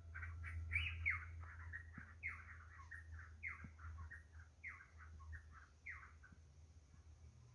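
A bird calling: a phrase of one loud falling note followed by a few quick shorter notes, repeated about five times and growing fainter toward the end, over a low steady hum.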